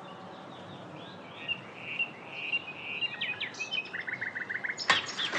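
Small birds chirping over a faint steady outdoor background, with a quick run of rapid repeated chirps about four seconds in. A brief loud burst of noise follows about five seconds in.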